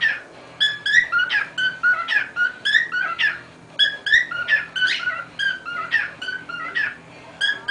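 Cockatiel whistling its song: a quick run of short chirping whistles in phrases, with brief pauses about halfway through and near the end.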